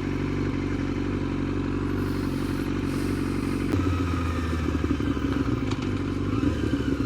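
Yamaha sportbike engine running at a steady low speed, its note shifting once about halfway through.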